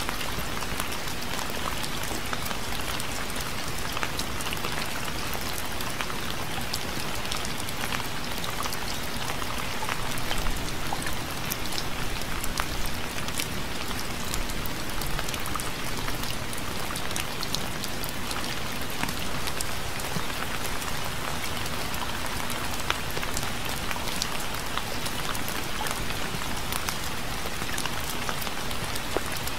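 Steady, gentle rain: a constant hiss of rainfall dotted with many sharp individual drop hits, swelling slightly louder for a few seconds about a third of the way in.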